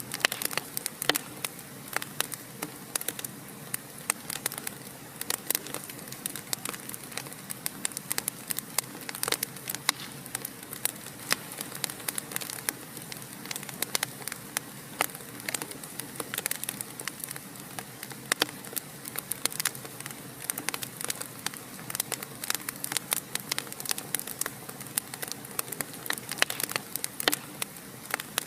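Fire burning in a fireplace: a steady soft hiss with frequent irregular sharp crackles and pops.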